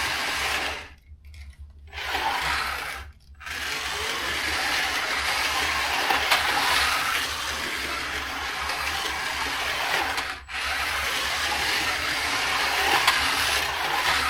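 Carrera GO!!! 1:43-scale slot cars running on the plastic track: small electric motors whirring and wheels rattling along the track. The sound cuts out for about a second a second in, again briefly around three seconds, and for a moment near ten seconds, over a steady low hum.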